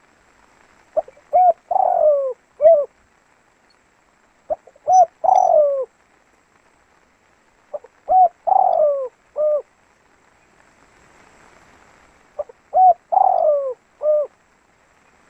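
A spotted dove (tekukur) singing its cooing song: four phrases about three and a half seconds apart, each a few short coos and a longer falling coo with a short note at the end.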